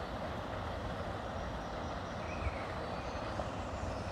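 Steady rumble of road traffic, with a few faint bird chirps over it.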